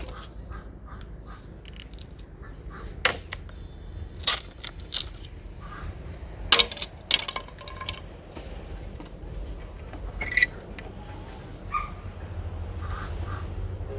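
Scattered sharp knocks and clicks at an irregular pace, over a low steady rumble that grows louder in the last couple of seconds.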